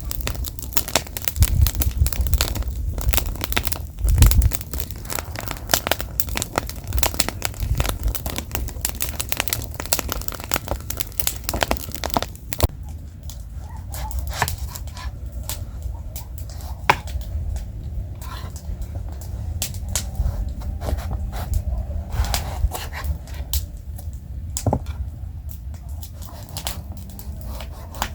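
Wood fire crackling: dense, irregular snapping and popping for about the first twelve seconds, then sparser, sharper pops.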